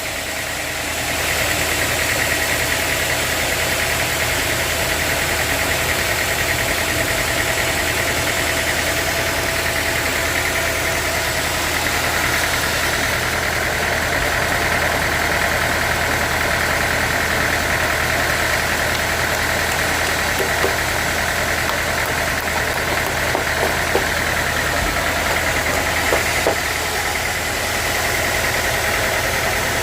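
Sawmill saw running steadily through a log, a continuous machine drone with a higher whine that comes up about a second in and holds. A few light knocks sound in the last third.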